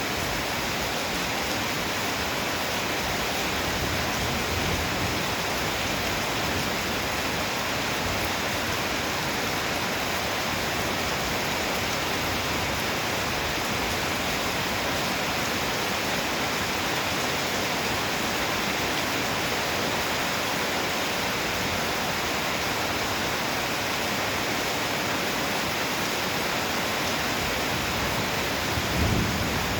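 Heavy rain pouring down in a steady, even hiss. Near the end there is one brief low thump.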